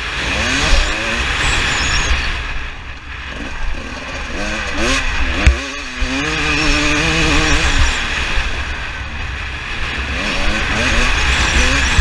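Two-stroke engine of a KTM 300 TPI dirt bike being ridden, revving up and down over and over, its pitch rising and falling with each burst of throttle.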